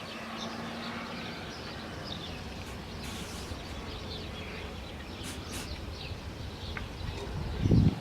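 Swallows twittering in many short high chirps over a steady low background rumble, with a brief loud low buffet near the end.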